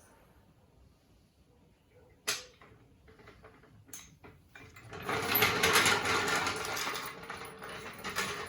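Jacking gear under a car clicking and rattling: two single knocks, then about five seconds in a dense run of rapid mechanical clicks lasting about three seconds.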